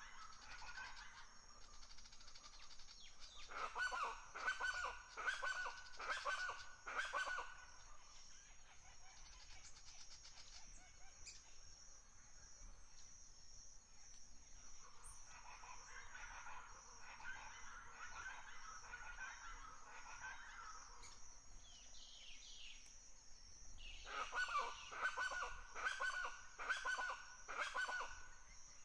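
Birds calling in three bouts of rapidly repeated pitched notes, over a steady high buzz.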